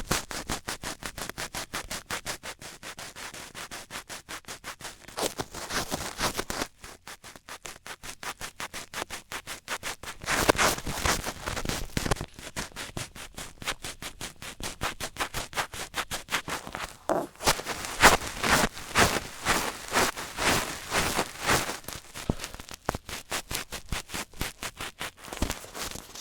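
Rapid close-up ASMR tapping and scratching on or near the microphone, a quick even run of crisp clicks, several a second, that grows louder in stretches.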